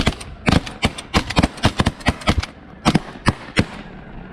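A rapid volley of shotgun blasts from several hunters firing at snow geese, about fifteen shots in under four seconds, some overlapping. The shooting stops a little over three and a half seconds in.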